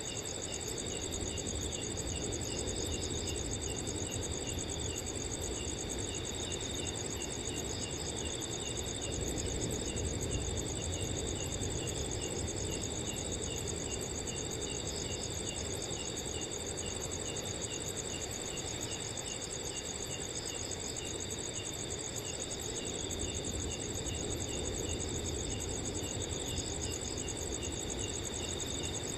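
Crickets chirping steadily, several overlapping at different pitches, some in rapid trills and some in quick repeated ticks. Underneath is a soft low wind noise that swells slightly about ten seconds in.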